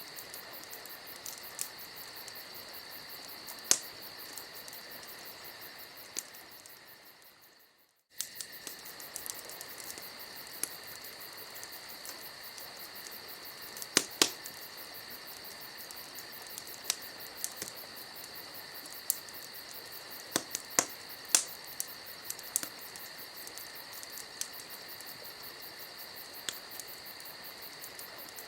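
Wood campfire crackling with scattered sharp pops over a steady chorus of crickets trilling. About six seconds in the sound fades almost to silence, then cuts straight back in about two seconds later.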